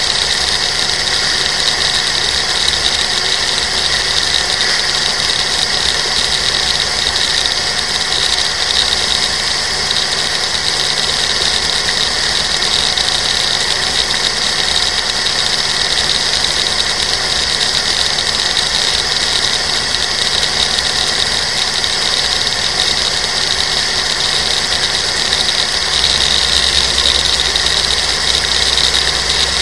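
Dragster engine idling steadily, heard through an onboard camera on the car, with an even hiss over it. The low engine note gets a little louder about 26 seconds in as the car creeps forward.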